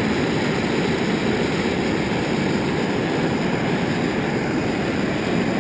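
Gas blowtorches firing into a small metal-melting furnace: a steady, even rushing noise with no change in level.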